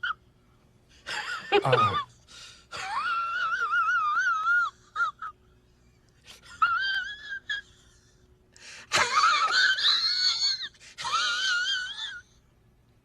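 A pet animal's long, high-pitched, wavering cries, about five in a row, each lasting one to two seconds, with short quiet gaps between them.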